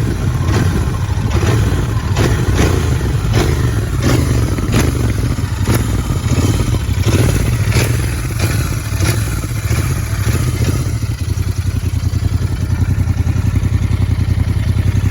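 Royal Enfield GT motorcycle engine running. For about the first ten seconds sharp regular pulses come about twice a second; after that it settles into a steady, even idle beat.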